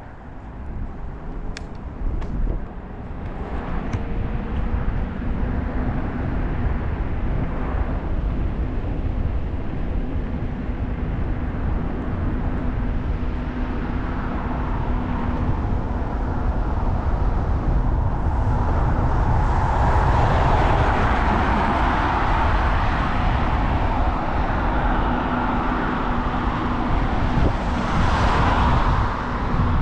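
Wind rumbling on the microphone of a moving bike, with road traffic noise that swells as vehicles pass about two-thirds of the way through and again near the end.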